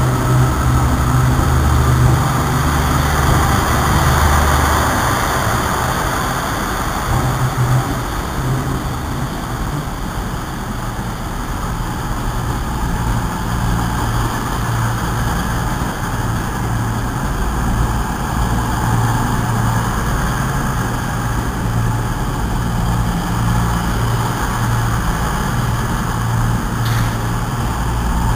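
Passenger trains in a covered station platform: a steady low rumble and hum of trains running and idling, with a few light clicks near the end.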